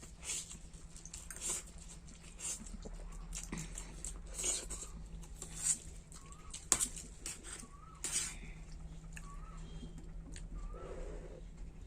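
Someone eating Maggi noodles: short bursts of chewing and slurping about once a second. Near the end a short wavering call repeats about once a second.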